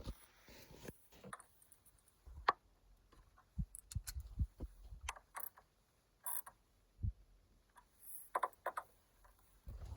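Scattered light clicks, taps and a few dull knocks as tailgate cables and their metal end fittings are handled and fitted.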